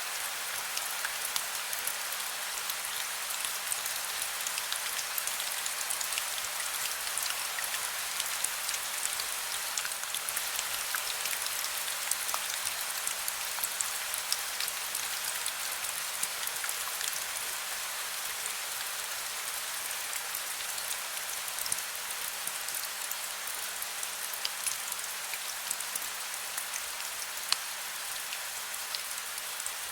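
Heavy rain falling steadily, a dense even hiss flecked with the ticks of individual drops striking a surface.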